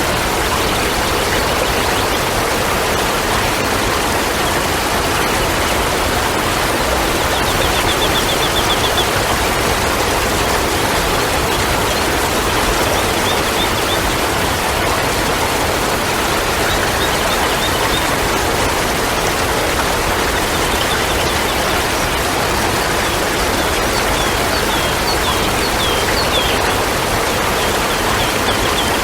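Steady rushing water, with short runs of high bird chirps every few seconds, coming more often in the last few seconds.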